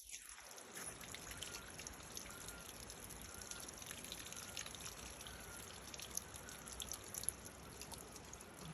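Water running steadily from a natural spring spout, a faint continuous pouring trickle.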